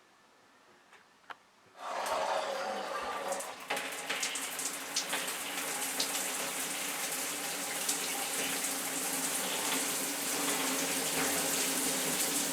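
A click, then about two seconds in a shower comes on: water spraying steadily from a square rain shower head in a very fine spray.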